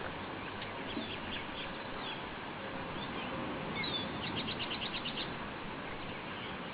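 A small bird chirping in short high notes, with a quick run of about nine rapid notes around four seconds in, over steady background noise.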